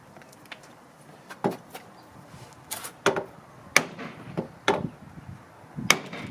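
Half a dozen sharp knocks and thwacks at irregular intervals, from work on a removed car door, typical of pounding out a dent in the door's edge.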